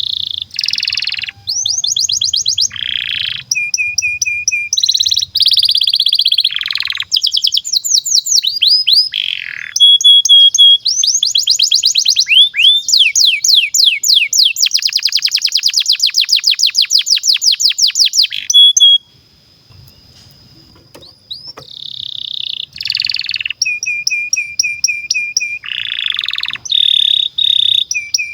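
Domestic canary singing a long song: phrase after phrase of rapid repeated notes and trills, some very fast and tightly packed, with a short pause about two-thirds of the way through before it starts up again.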